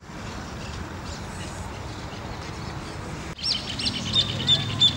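Steady outdoor background noise, then from about three and a half seconds in a bird calling repeatedly: short, high calls about three a second.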